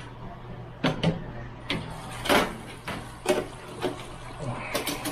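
Metal kitchen tongs and the wire basket of an electric deep fryer clanking and scraping, a handful of sharp knocks spread through, the loudest about halfway. The fried chicken strips are being taken out once the fryer's timer has gone off. A low steady hum runs underneath.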